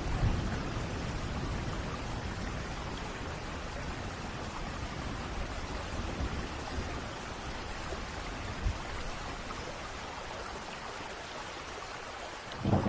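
Steady rain falling, with a thunder rumble dying away just after the start and a new peal of thunder starting to roll in near the end.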